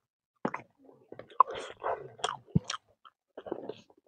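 Close-miked chewing of a mouthful of roasted fish and rice: short, irregular clicks and bursts with brief gaps between.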